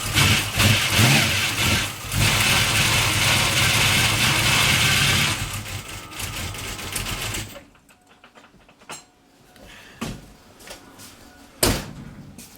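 383 stroker V8 running loud, with a lot of mechanical gear noise from the front of the engine, coming from its gear-drive timing set. The engine winds down and stops about seven seconds in, followed by a few clicks.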